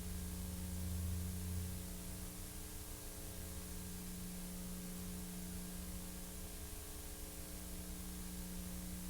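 Steady electrical hum with a constant hiss: the noise floor of a soundtrack with no recorded sound on it, with a brief low rumble swelling about a second in.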